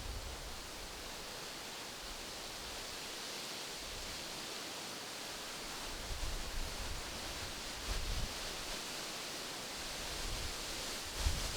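Wind blowing through tree leaves: a steady rustling hiss, with low gusts of wind rumbling on the microphone about six and eight seconds in and again near the end.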